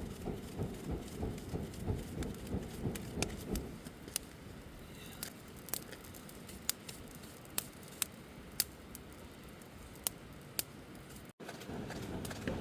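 Campfire crackling, with sharp, irregular wood pops. For the first few seconds a quick run of low, rustling thuds sits under the pops.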